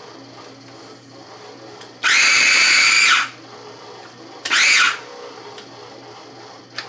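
Ninja food processor motor pulsed twice to chop cooked chicken: a loud, high whirring burst of about a second, then a shorter half-second pulse.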